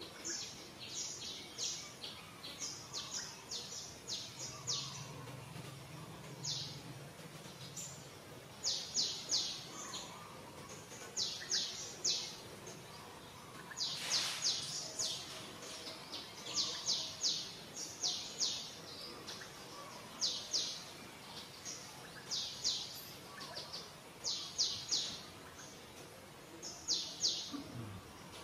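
Birds chirping: short runs of three to five quick, high chirps, repeating every second or two over a steady outdoor background hiss.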